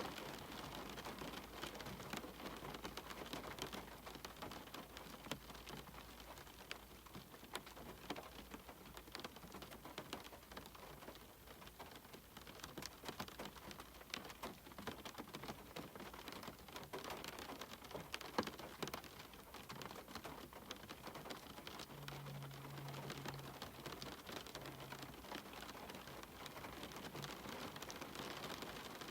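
Faint, steady rain falling, with many single drops tapping throughout.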